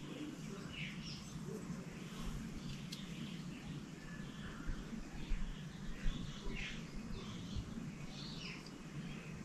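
Faint birdsong: short chirps scattered through, over a low steady hum.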